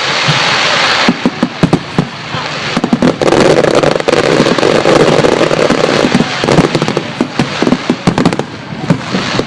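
Fireworks going off in a rapid, dense barrage of bangs and crackles, loudest for a few seconds in the middle.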